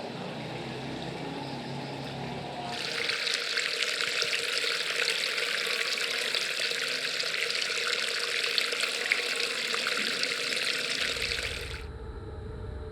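Running, splashing water, a dense crackly hiss that starts abruptly about three seconds in and cuts off suddenly near the end, giving way to a low rumble.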